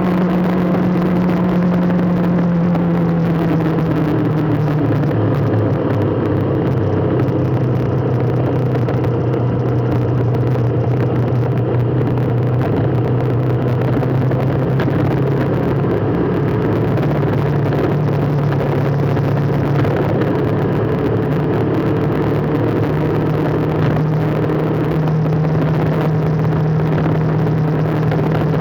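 A road vehicle's engine running steadily under a constant rushing noise. Its note drops a few seconds in and climbs back up past the middle, as speed changes in traffic.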